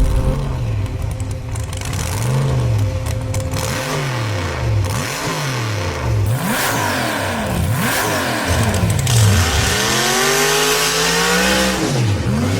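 1930 Ford Model A coupe rat rod's engine revving, its pitch climbing and falling again and again, then one longer climb near the end before it drops back.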